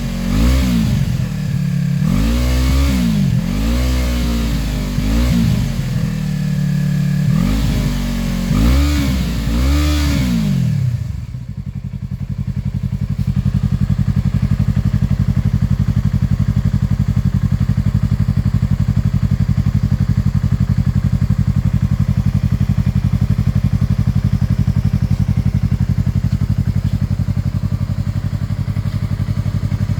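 Yamaha R3 parallel-twin motorcycle engine through a DG Performance aftermarket exhaust, revved in about six quick throttle blips that each rise and fall. About eleven seconds in, the revving stops and it settles into a steady idle.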